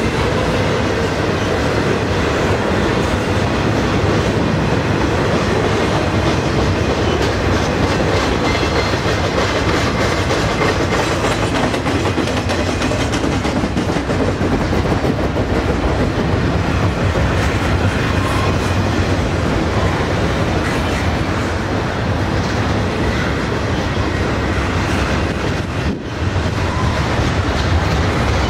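Double-stack container train's loaded well cars rolling past close by: steady rumble and rattle of steel wheels on rail, with repeated clicks over the track. Near the end the sound briefly drops for a moment before picking up again.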